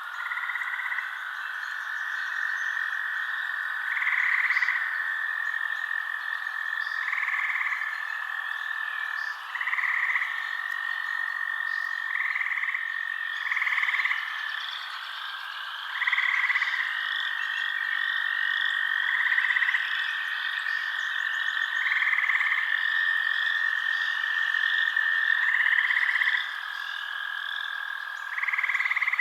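Night chorus of frogs calling: long steady trills held for several seconds at a time, overlaid by shorter calls that repeat about every three seconds, with faint higher chirps behind.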